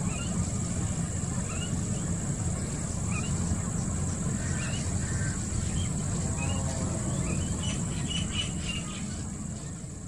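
Birds chirping in short rising notes, roughly once a second, over a steady high-pitched hiss and a low rumble.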